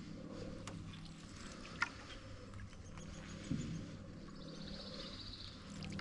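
Canoe paddling on still water: quiet paddle strokes with a sharp click about two seconds in and a knock on the hull near the middle, over a low steady hum. A brief, fast high trill sounds near the end.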